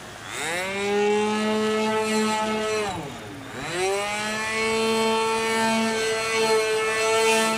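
Nitro glow two-stroke model airplane engine (.46AX) turning a 12x4 propeller in flight, its high buzzing note rising after a throttle chop. It holds steady, dips sharply as the throttle is pulled back about three seconds in, then climbs to full power again about a second later.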